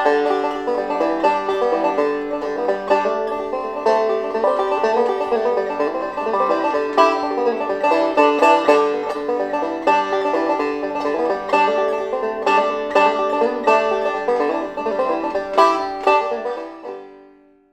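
Banjo played solo in a quick picked instrumental passage that fades out on its last ringing notes near the end, recorded through a vintage RCA 77D ribbon microphone.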